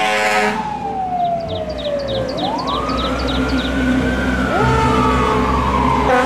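Missile launch: a sudden loud blast, then a steady low rumble under whistle-like tones that slide slowly down, then rise and fall again.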